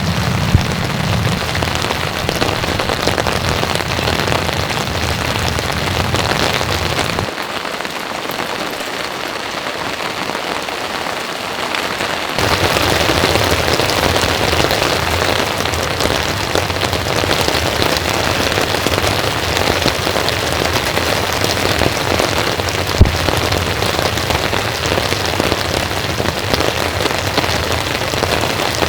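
Heavy rain falling steadily, a dense even patter of drops on surfaces. It thins out in the deepest and highest tones for a few seconds near the middle, and a single sharp tap stands out about 23 seconds in.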